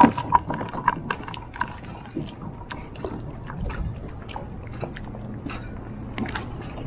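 Scattered light clicks and knocks of handling on a fishing kayak, just after a bream has been landed, over a low steady hum.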